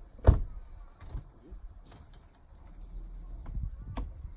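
One loud sharp knock near the start, then a few lighter knocks and clicks, with a low vehicle rumble building from about three seconds in.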